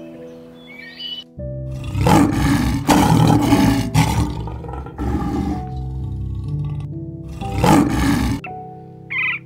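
White lion roaring: a run of deep roars and grunts from about a second and a half in until about eight seconds, over soft piano music.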